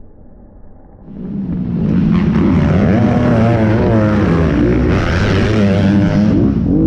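Motocross bike engines revving hard, their pitch rising and falling repeatedly, coming in loud about a second in.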